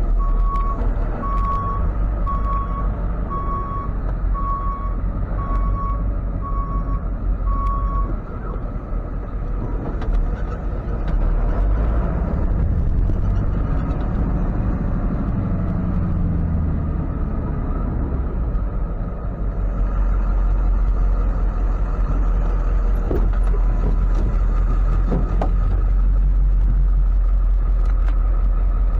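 Tow truck backing up: its reverse alarm beeps steadily, a little more than once a second, and stops about eight seconds in, over the running engine, which gets somewhat louder near the end.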